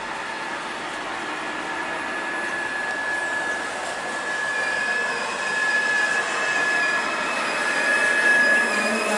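A train of double-deck passenger coaches running past on the track, a steady rolling rush with a high, steady whine over it, slowly getting louder; more high tones join about halfway through.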